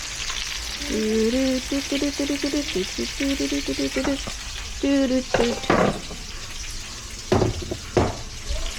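Pork, shrimp and beef stir-frying in a pan with a steady sizzle, stirred with a utensil that knocks against the pan a few times in the second half. The cook complains the pan is not getting hot enough.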